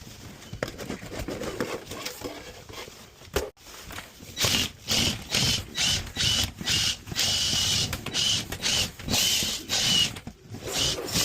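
A power drill spins a rotary dryer-vent cleaning brush in short, loud bursts, switched on and off again and again over the second half. Rustling from handling comes before the bursts.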